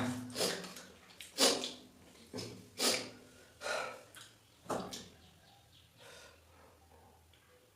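A person breathing hard with loud snorting breaths, about one a second, which fade out after about five seconds. The breathing comes from a pause to rest partway through an eating challenge.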